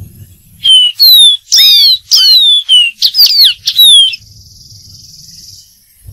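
Dark-throated seedeater singing: a quick phrase of about eight loud, clear whistled notes, most of them sliding downward, starting about a second in and lasting about three and a half seconds.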